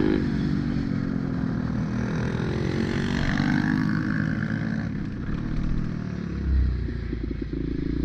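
Pit bike's small single-cylinder engine running under throttle, its note rising and falling as it is ridden. The note drops back about five seconds in, and a low thump follows a little later.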